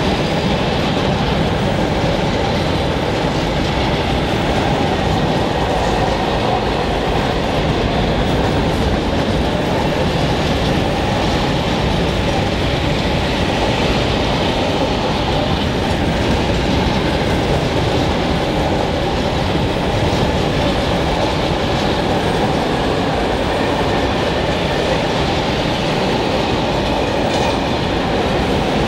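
Long freight train of open-top wagons rolling past close by, with a steady noise of steel wheels running on the rails.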